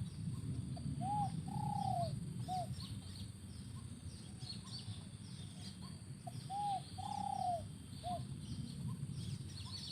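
Spotted dove cooing: two three-note phrases, a short note, a long falling coo and a short note, about a second in and again near seven seconds. Small birds chirp high above throughout.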